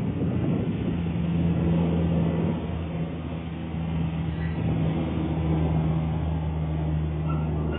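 Steady low motor hum over a rushing noise.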